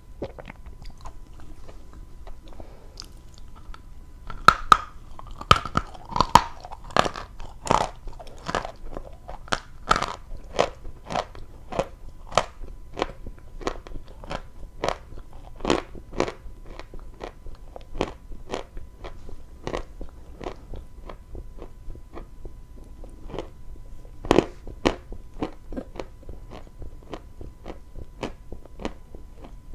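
Close-miked chewing of dry chalk: a steady run of sharp crunches, about two a second, loudest between about four and eight seconds in and once more with a single loud bite about five seconds before the end.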